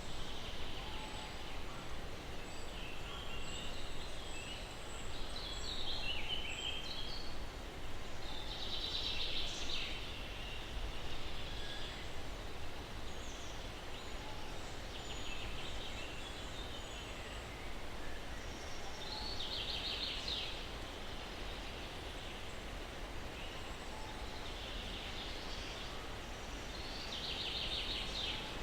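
Steady breeze noise with a low rumble, under songbirds chirping high and thin. A short rapid trill comes three times, roughly every ten seconds.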